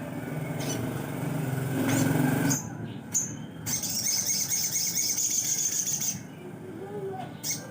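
A low steady hum builds to its loudest about two seconds in, then cuts off. About a second later a songbird sings a sustained high buzzy trill for roughly two seconds.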